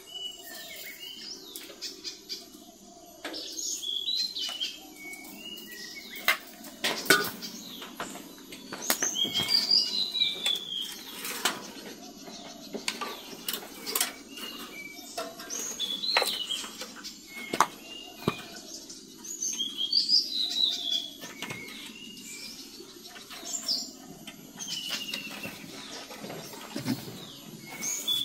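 Birds chirping in short, repeated high calls, with sharp knocks and clicks now and then.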